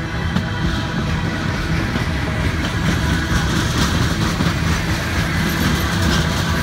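Norfolk Southern freight train rolling past, its cars' wheels clacking over the rail joints with a steady rumble.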